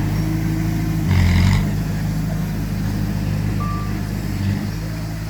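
Heavy diesel earthmoving machinery running steadily, with a short loud burst of noise about a second in. A single short reversing beep sounds a little before the end.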